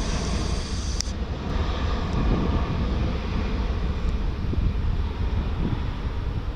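Airliner engine noise: a steady low rumble, with a gusty wind buffeting the microphone.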